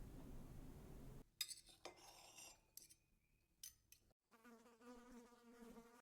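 Faint jungle sounds in short spliced pieces: a low rumble, then scattered clicks, then over the last couple of seconds the steady, slightly wavering buzz of a flying insect.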